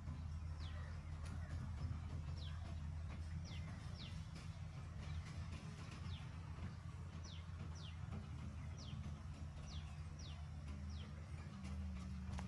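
Small birds chirping: short, high, quickly falling chirps, roughly one a second at irregular spacing, over a steady low hum.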